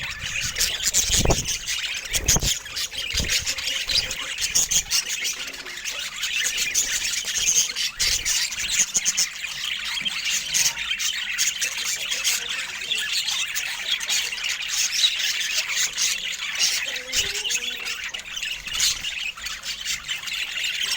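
Budgerigars chirping and chattering continuously, a dense run of short high calls, with a couple of low bumps in the first few seconds.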